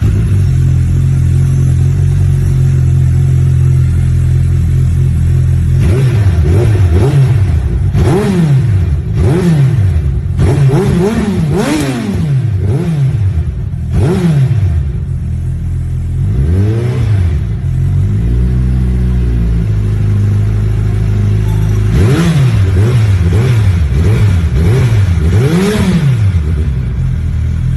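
Suzuki Hayabusa inline-four through an aftermarket Yoshimura exhaust, idling steadily for about six seconds, then revved in a series of quick throttle blips, each rising and dropping back. The blips come in groups with short idle stretches between them, and a last burst of blips comes near the end.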